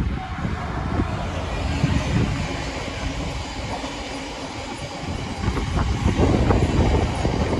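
Class 66 diesel freight train passing close by: the locomotive goes past first, then a long rake of empty biomass hopper wagons rolls by, wheels clattering over the rail joints. The clatter grows louder from about five seconds in.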